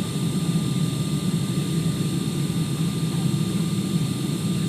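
Steady cabin noise inside a Boeing 747-400 airliner on approach: a low, even rush of airflow and engines, with a few faint steady high tones above it.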